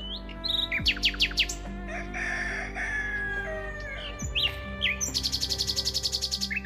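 Songbirds calling over one another: a run of quick downward-sweeping whistles about a second in, a harsher, noisier call a little later, and a fast high trill of about a dozen notes a second near the end. A soft, steady musical drone runs underneath.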